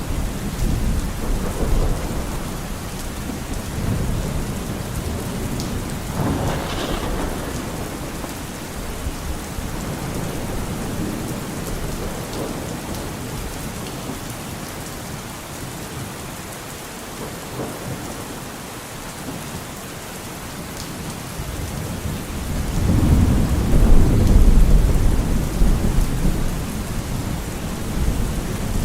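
Steady rain with rolling thunder. A sharper thunderclap comes about seven seconds in, and a long, loud rumble of thunder builds up in the last third.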